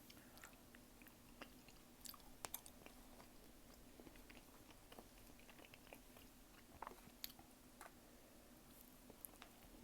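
Faint, close-miked chewing and mouth sounds of someone eating tteokbokki and gimbap, with scattered sharp little clicks, the loudest about two and a half and seven seconds in.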